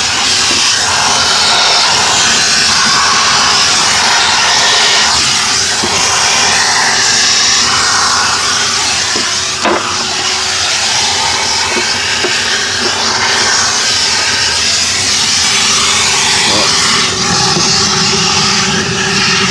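Henry canister vacuum cleaner running steadily: a rushing of air with a steady hum, while it sucks soot out of a wood-burning stove. A few light knocks and clicks are heard as the nozzle works inside the stove.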